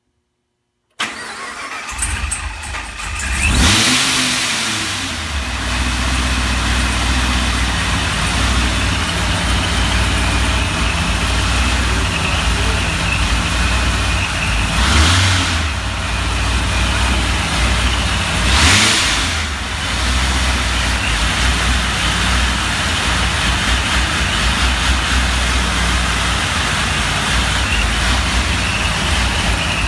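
Supercharged 6.0-litre V8 of a modified 2009 Pontiac G8 GT, with an aftermarket cam and 3-inch exhaust, starting about a second in, flaring up, then settling into an uneven idle. It is revved briefly twice, at around 15 and 19 seconds.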